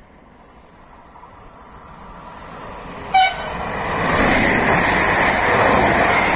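Electric multiple unit approaching and passing close by at speed, its running noise building up to a loud pass-by. About three seconds in it gives one short, sharp horn toot, the loudest moment.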